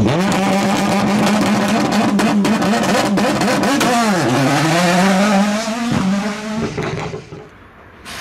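Race car engine revving hard, with sharp pops; the revs drop steeply about four seconds in and climb again, and the sound fades out near the end.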